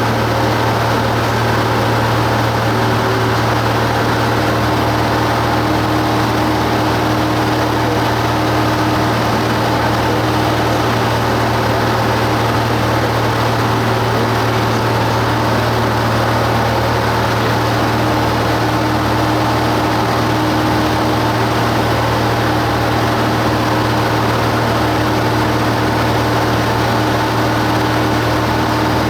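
Cessna 172 Skyhawk's piston engine and propeller droning steadily in flight, heard from inside the cabin: a constant low hum with no change in power.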